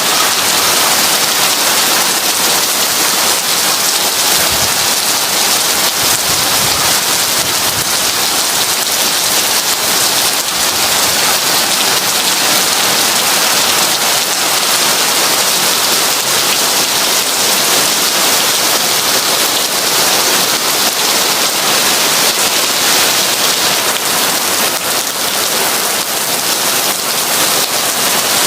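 Heavy rain falling steadily, an even dense hiss without any distinct thunderclap.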